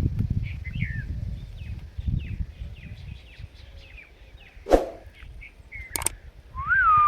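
Indian ringneck parrot giving a quick run of short chirps over a low background rumble. A sharp knock, the loudest sound, comes about two-thirds of the way through, two clicks follow, and a whistle rises and then holds near the end.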